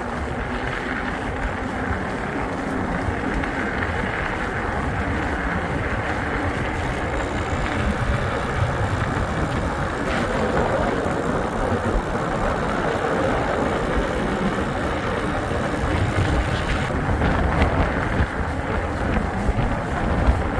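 Wind buffeting the microphone: a loud, steady rushing noise with a heavy low rumble, growing a little rougher near the end.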